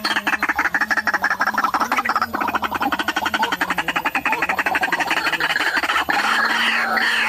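White-breasted waterhen calling: a rapid run of harsh, pulsed croaks that changes about six seconds in to louder, bending squawks.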